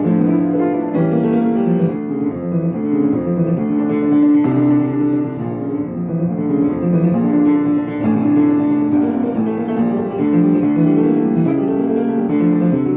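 Piano music: a dense run of sustained notes and chords in the low-middle range, played continuously at an even level.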